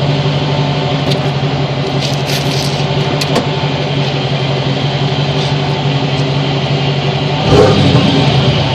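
1995 Ford Bronco's 351 Windsor V8 idling steadily through a Gibson muffler and 3.5-inch exhaust tip, with one short throttle blip that swells the exhaust note near the end.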